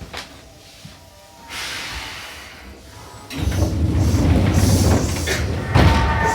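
Inside a Seibu New 2000 series train standing at a station before departure. A hiss of air starts about a second and a half in, then a loud low rumble comes in about three seconds in, with a thump near the end.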